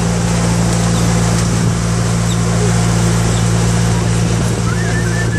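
Motor launch's engine droning steadily at cruising speed, with a constant low hum and a wash of water and wind noise.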